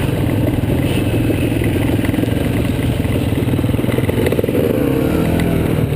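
Yamaha TT-R230 dirt bike's single-cylinder four-stroke engine running steadily under way on a trail, with some rattle from the bike. The revs climb and drop again about five seconds in.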